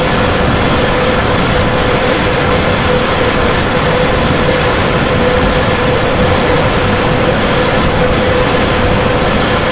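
Loud, unbroken harsh noise from an amplified suitcase whose underside is being rubbed with an amplified toy shovel. One steady droning tone runs through the dense grinding noise without letup.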